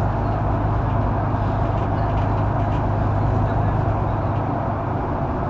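Cabin sound of a Mercedes-Benz O530 Citaro facelift Ü bus under way: steady engine and road noise with a constant low hum.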